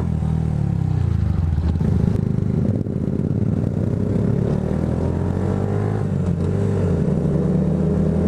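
Motorcycle engine running steadily at low revs, its note rising and falling slightly.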